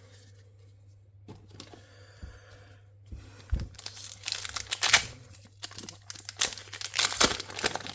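Foil Pokémon card booster pack wrapper being crinkled and torn open. There is faint crackling at first, then a busy stretch of crinkling and tearing from about halfway in.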